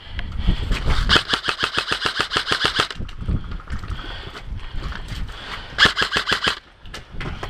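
Airsoft rifle firing full-auto: a rapid, even string of shots for about two seconds starting a second in, then a shorter burst near six seconds.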